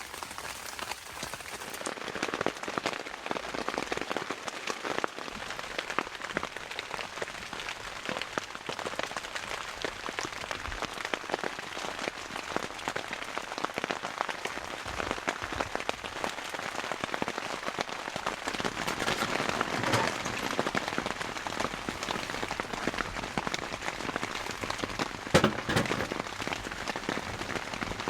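Rain falling steadily on a tent, a dense patter of drops, with one sharper, louder tap near the end.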